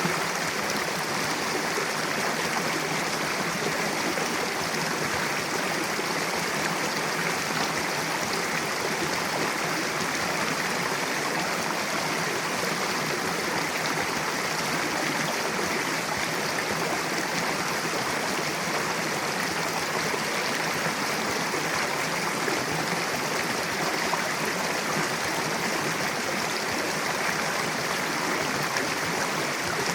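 Mountain river rushing steadily over rocks, a constant even flow with no breaks.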